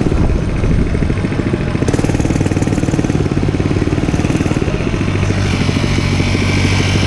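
Dirt bike engine running, its note steadying into an even hum about five seconds in.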